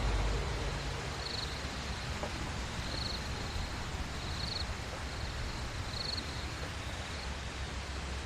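Outdoor ambience: a steady hiss with an insect chirping briefly about every second and a half.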